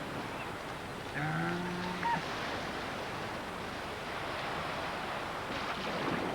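An eared seal of the Galapagos gives one drawn-out call, steady in pitch and about a second long, starting about a second in, over the steady wash of surf.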